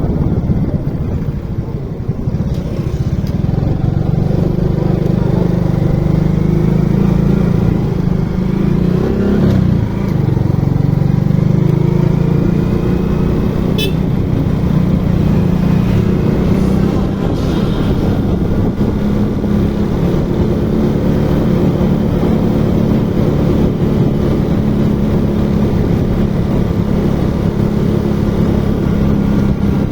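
Motorcycle engine running steadily under way, with a short dip and rise in pitch about ten seconds in and a single sharp click near the middle.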